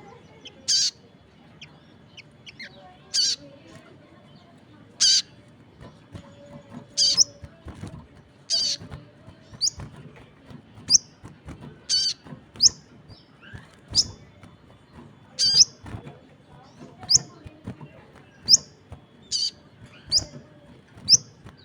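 Sogon bird calling over and over: short, sharp, high chirps about every second or two, each one brief, coming quicker in the second half.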